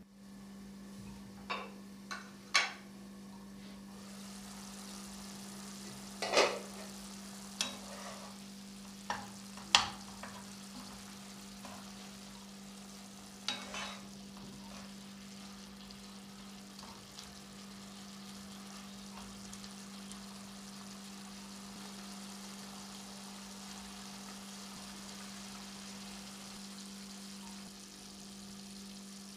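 Chicken pieces and sliced onions frying in a pan with a steady sizzle that grows louder a few seconds in. During the first fifteen seconds there are several sharp knocks against the pan as the food is stirred with a wooden spatula. A steady low hum runs underneath.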